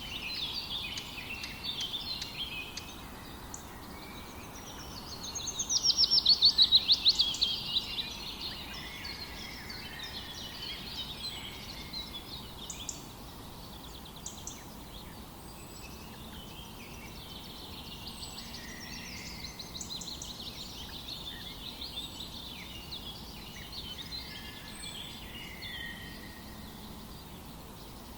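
Several birds chirping and singing together, with one loud, fast trill about five seconds in that drops in pitch and lasts around three seconds.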